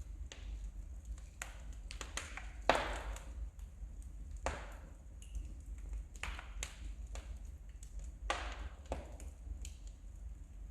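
Wood fire crackling in a fireplace: irregular sharp pops and snaps, a few of them louder with a brief ringing tail, over a low steady rumble.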